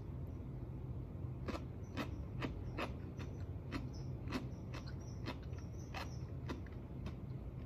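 Close-up chewing of crunchy food: a string of sharp crunches, about two to three a second, starting about a second and a half in, over a steady low room hum. Faint high squeaks come in now and then.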